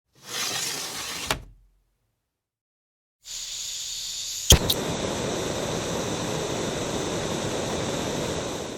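Two separate household sounds. First a brief swish that ends in a thump. Then, after a short silence, a steady rushing hiss starts, steps up in level after a sharp click, and cuts off near the end.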